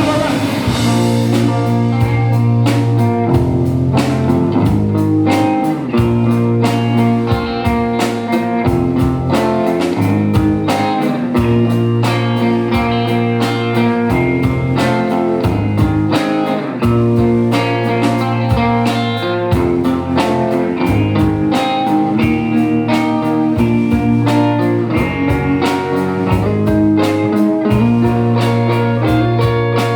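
A live rock band playing an instrumental passage: electric guitar over a steady drum beat, with no singing.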